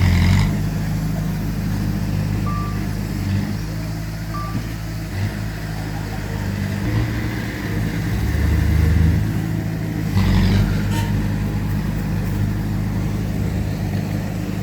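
Heavy diesel earthmoving machinery running steadily at a low rumble, with brief metallic clattering at the start and again about 10 seconds in, and two short high beeps a few seconds in.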